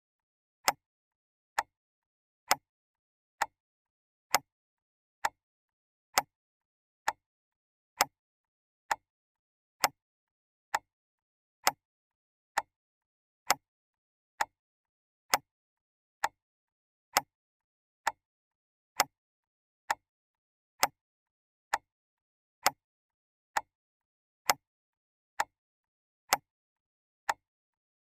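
Clock ticking steadily, one sharp tick a little under once a second, with every other tick slightly louder in a tick-tock pattern.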